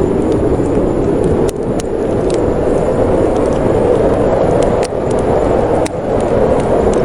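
Steady rushing of snowstorm wind, with a few sharp pops and crackles from a wood fire in a fireplace scattered through it.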